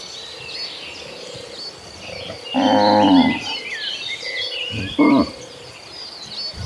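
Cattle mooing: one long, loud moo about two and a half seconds in, and a short one about five seconds in. Small birds chirp in the background.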